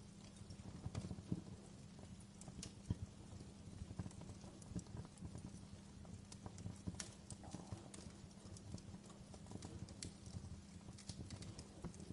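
Fireplace fire crackling: irregular sharp pops and ticks over a low steady rumble.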